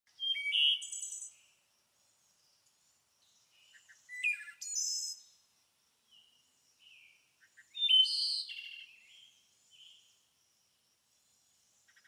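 Birdsong: three short bursts of high chirping and trilling, about four seconds apart, with dead silence between them.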